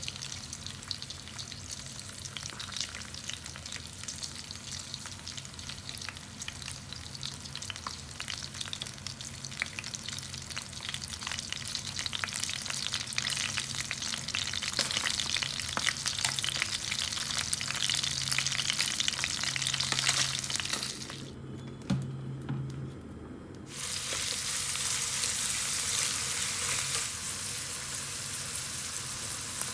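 Hot oil sizzling and crackling around whole fish frying in a wok, growing louder, with a steady low hum underneath. About three-quarters of the way through it cuts to a smoother, even sizzle of shredded vegetable strips frying in oil.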